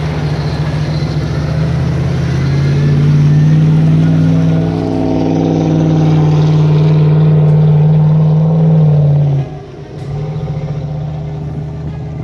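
Off-road 4x4 vehicle engine working under load, revving up and holding high revs. The revs drop off suddenly near the end, then the engine carries on more quietly.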